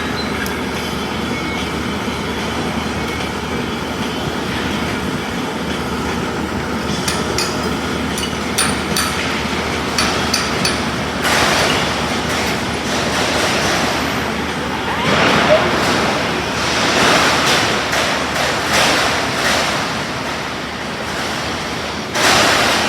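Self-shielded flux-core arc welding with Lincoln Innershield NR305 wire: the arc crackles and hisses over a steady rumble, in several runs during the second half.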